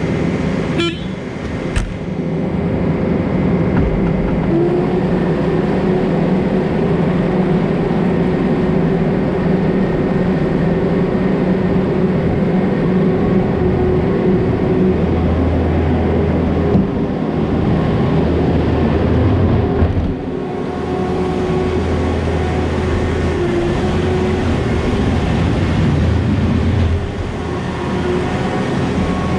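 Farm loader's engine running steadily under load while scraping manure from freestall alleys, its pitch shifting slightly now and then.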